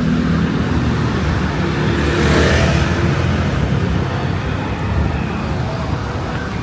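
Street traffic: a motor vehicle passes close by, loudest about two to three seconds in, over a steady low rumble.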